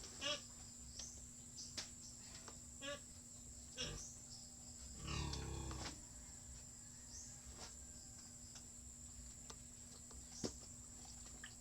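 Farm animals calling: short pulsed calls near the start and about three seconds in, and a longer, lower call falling in pitch about five seconds in. Scattered light clicks and knocks run among them.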